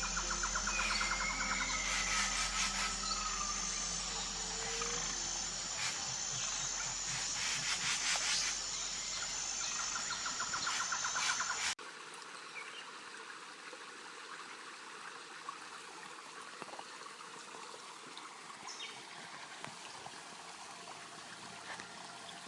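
Jungle ambience of insects and frogs: a steady high insect drone with pulsed trilling calls and a few short whistled bird-like calls. About halfway through it cuts suddenly to a quieter, hissy forest ambience with a few faint clicks.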